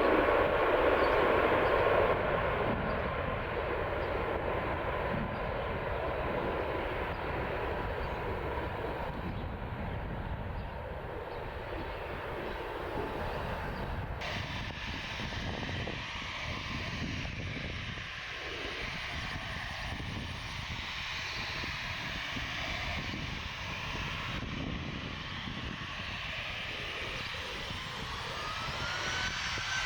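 Airliner engines running: loud at first, then dropping back to a steady rumble after a couple of seconds. An abrupt change comes about halfway through, and near the end a rising whine and growing loudness mark another aircraft's engines coming in.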